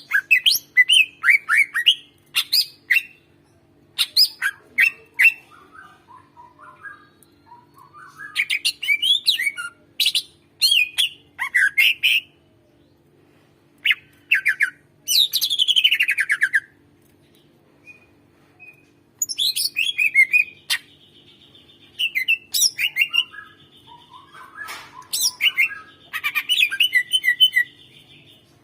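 Cucak ijo (green leafbird) singing loudly in bursts of rapid sharp chirps, trills and long falling whistles, broken by short pauses. A faint steady hum runs underneath.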